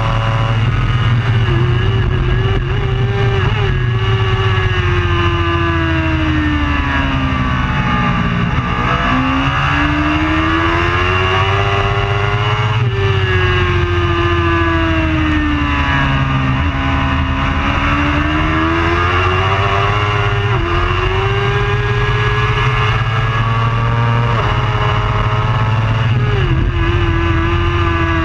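Superbike racing motorcycle engine running hard, its note repeatedly climbing as it accelerates and falling away under braking, with sudden drops in pitch at gear changes, over a steady low rumble.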